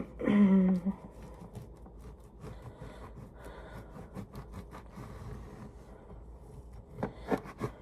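Bread knife sawing through a crusty sourdough loaf, the crust crackling faintly, with a few knocks of the knife on the cutting board near the end. A brief falling hum of a voice at the very start.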